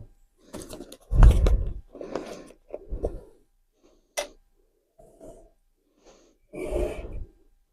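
Objects being handled on a table: a run of short rustles and knocks, with a heavy thump about a second in and a sharp click about four seconds in.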